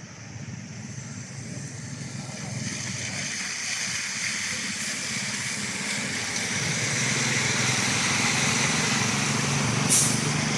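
Motor vehicle engine running and growing steadily louder as it approaches, with a brief sharp noise near the end.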